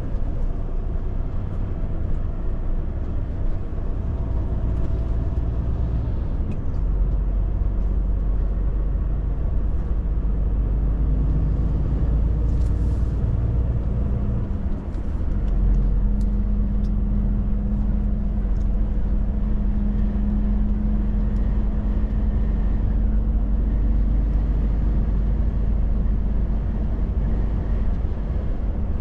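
Volvo FH truck's diesel engine running steadily under way, with a low drone and road noise. About halfway through the level dips briefly and the engine note changes, then settles at a steadier, slightly louder pitch.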